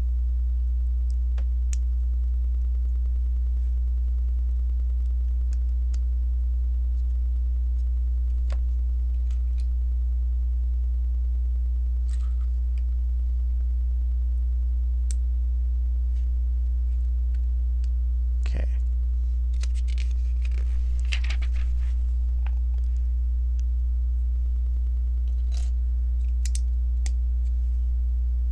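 Steady low electrical mains hum with a buzzy edge, over faint scattered clicks and taps of plastic Lego pieces being handled and fitted, with a brief crackly rustle of pieces about 20 seconds in.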